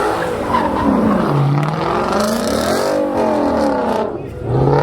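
A car's engine revving hard, its pitch rising and falling several times, with tyres squealing as in a burnout. The sound eases briefly near the end, then comes back up.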